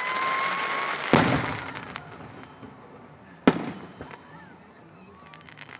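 Fireworks: a whistling shell rising in pitch as it climbs, then a loud bang about a second in with a fading crackle, and a second sharp bang a couple of seconds later.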